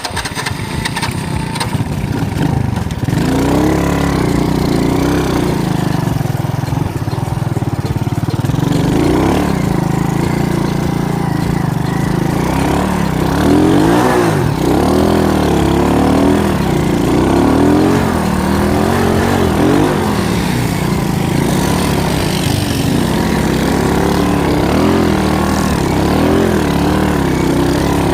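Alpha moped's four-stroke single-cylinder engine running, its pitch rising and falling repeatedly as the throttle is worked.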